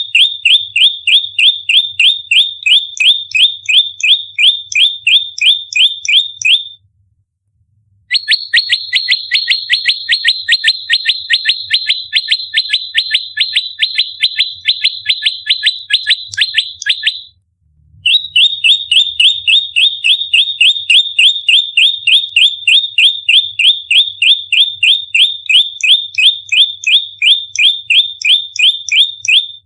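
Prenjak lumut giving its rapid-fire fighting call: a fast, even run of sharp, downward-slurred chirps, about four to five a second. The chirps come in three long bouts broken by two short pauses, the middle bout pitched a little higher.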